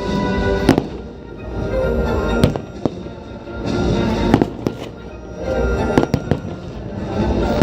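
Fireworks going off: repeated sharp bangs and cracks over rising and falling swells of rumbling noise, coming about every two seconds.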